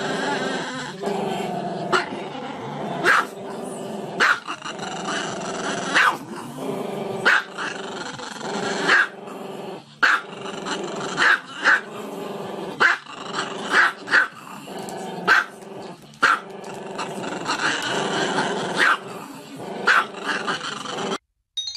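Small black-and-tan dog growling continuously, breaking into sharp barks about once a second.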